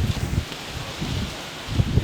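Strong wind gusting through leaves, with the gusts buffeting the microphone in low rumbles; it eases briefly mid-way and picks up again near the end.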